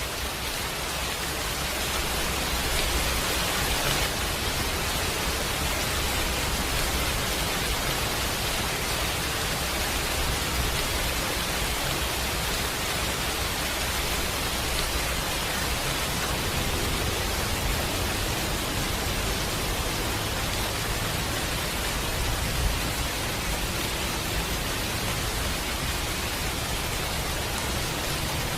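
Steady rain, an even hiss with a low rumble underneath, with one brief pop near the end.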